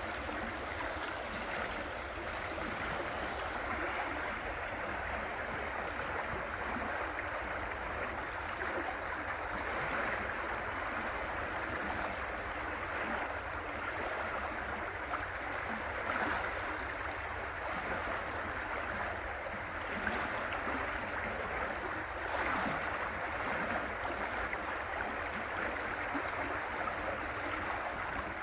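River water rushing and gurgling in a steady, continuous flow.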